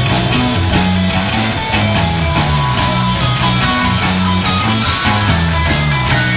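Live rock band playing an instrumental passage: guitars over a bass line that steps between notes.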